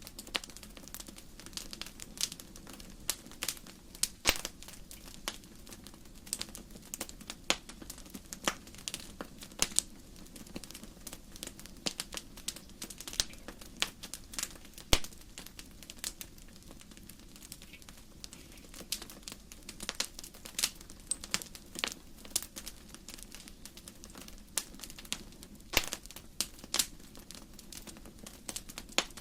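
Wood fire burning in a fireplace: logs crackling with many irregular sharp pops over a steady low background.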